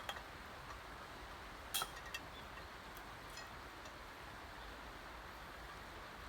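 A few short, sharp clicks, the loudest about two seconds in and quickly followed by another, over a steady low hiss.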